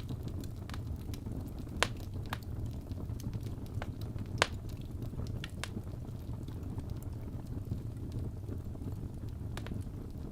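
Wood fire burning in a fireplace: a steady low rumble of flames with scattered crackles of burning logs and two sharper pops in the first half.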